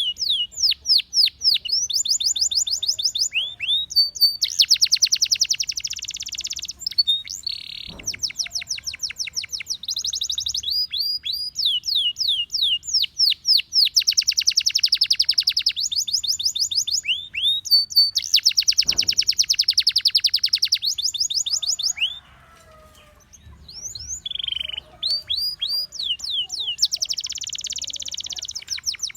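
Gloster canary singing: runs of fast repeated falling whistled notes alternating with dense, buzzy rolled trills, with a short break about three quarters of the way through before the song resumes.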